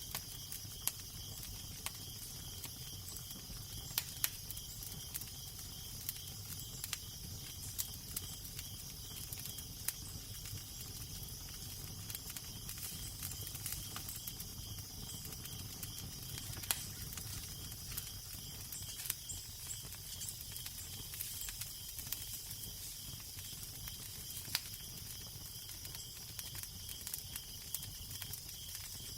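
Crackling fire: scattered sharp pops and snaps over a steady hiss, with a low, steady wind rumble underneath.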